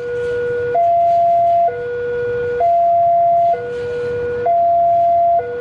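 Electronic level-crossing warning alarm sounding, a steady alternation of a low and a higher tone, each held just under a second. It signals that a train is approaching and the crossing is closed.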